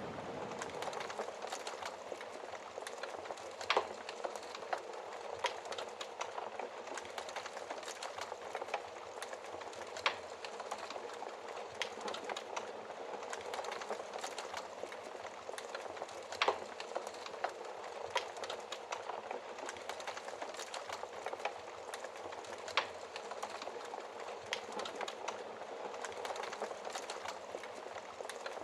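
Wood fire crackling steadily in a fireplace: a hiss full of small snaps, with a louder sharp pop every six seconds or so.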